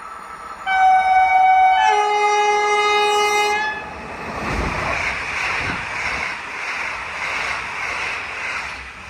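Train horn sounding two held notes, a higher one and then a lower one, for about three seconds. The train then passes at speed with a steady rush of wheels on rail and a couple of low thumps, fading near the end.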